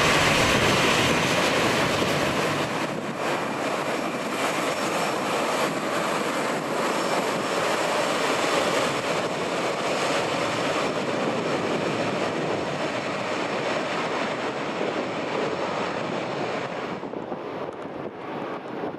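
Jet engines of an Airbus A319 airliner, a loud steady rush with faint high whining tones, slowly fading. The jet noise drops away sharply near the end, leaving mostly wind on the microphone.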